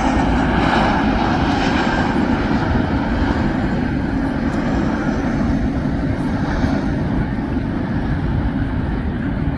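Airliner's jet engines running loud and steady as the plane passes, fading slowly as the high hiss dies away near the end.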